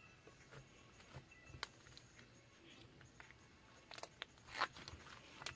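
Faint scattered clicks and crunching noises, with a few sharper, louder ones near the end.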